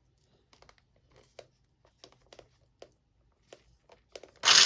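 Light clicks and rustles of handling batter ingredients and utensils in a pot, then near the end an electric hand mixer is switched on and runs loudly in the batter.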